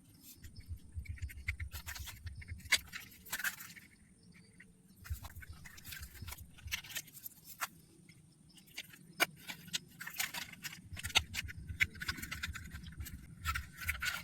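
Plastic toy tractor parts being handled and fitted together: scattered clicks, taps and light rattles.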